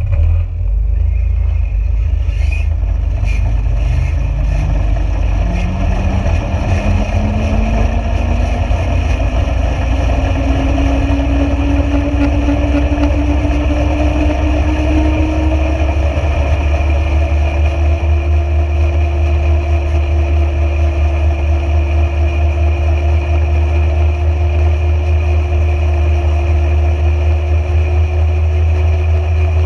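A motor vehicle running with a heavy low rumble. Its pitch climbs steadily for about the first fifteen seconds as it gathers speed, then holds level.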